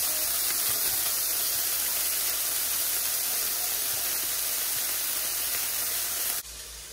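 Sliced sausage, onion and peppers sizzling steadily as they saute in a hot pot. The sizzle cuts off suddenly about six and a half seconds in.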